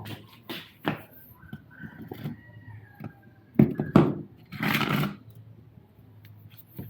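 Scattered metal knocks and clicks of a motorcycle swingarm paddock stand being handled, with two loud clunks about three and a half and four seconds in, followed by a short scraping rasp.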